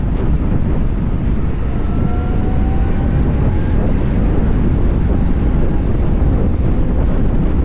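Wind buffeting the microphone on a moving electric motorcycle, a loud, steady low rumble. A faint rising whine runs through it from about two seconds in to about four seconds in.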